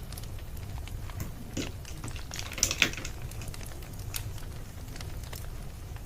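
Wood fire crackling with scattered sharp pops over a low steady rumble, with a denser, louder run of crackles about halfway through.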